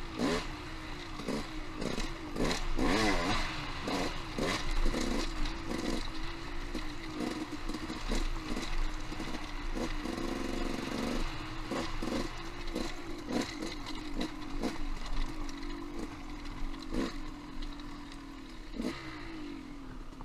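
Off-road motorcycle engine running with its revs rising and falling. Frequent knocks and clatter come from the bike being ridden over rocky trail.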